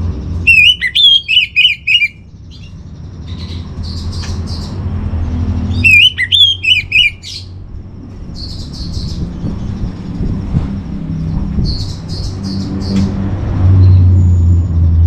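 Orange-headed thrush singing: two loud phrases of fast, repeated whistled notes, one about half a second in and one about six seconds in, with fainter chirps between them. A low rumble runs underneath and grows louder near the end.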